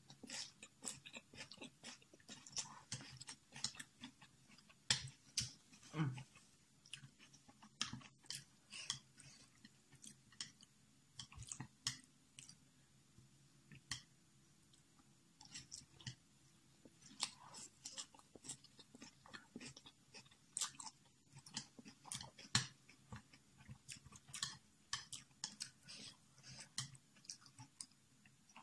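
A person chewing a mouthful of Samyang spicy instant noodles with vegetables close to the microphone: many short, irregular wet clicks of the mouth and teeth.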